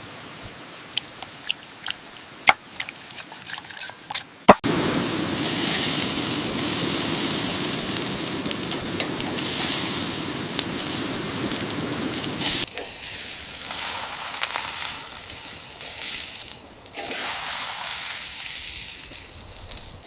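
A few light clicks and a sharp knock, then food sizzling on a hot grill: a steady hiss that starts suddenly about four and a half seconds in and thins out about halfway through.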